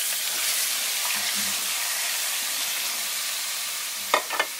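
Frozen chopped tomatoes sizzling loudly as they hit hot ghee-oil in a frying pan, a hiss that starts suddenly and slowly fades. Two sharp knocks near the end.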